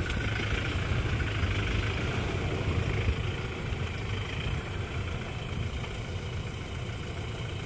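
Off-road vehicle engine running steadily at low revs, a deep even rumble with no revving.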